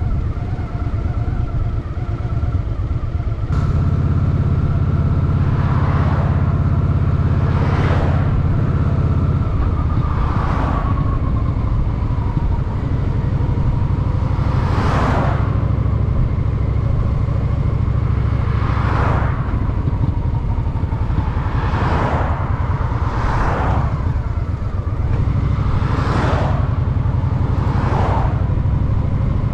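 Honda Shadow VT750's V-twin engine running on the road, heard from the rider's position. It gets louder about three and a half seconds in and then holds steady, with a string of whooshing surges every second or two.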